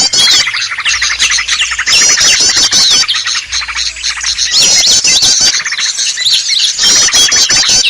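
Bird-lure recording of many small birds calling at once, a busy mix of chirps and squawks. A burst of fast repeated chirps comes back about every two and a half seconds, as in a looped track.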